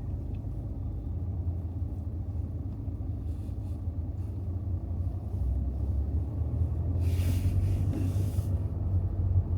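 Low, steady road and engine rumble of a car driving, heard from inside the cabin, with a brief rush of hiss about seven seconds in.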